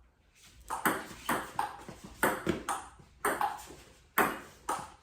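Table tennis rally: the celluloid ball clicking back and forth off the paddles and table, about two hits a second, starting under a second in.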